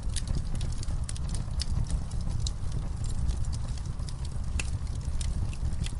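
Campfire burning: a steady low rumble of flames under frequent, irregular sharp crackles and pops of burning wood.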